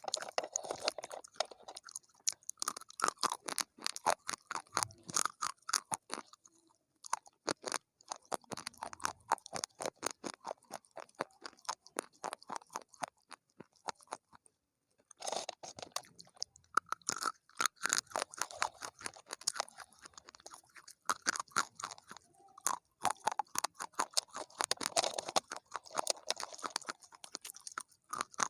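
A person chewing crunchy food close to the microphone: dense runs of sharp crunches and crackles, pausing briefly twice.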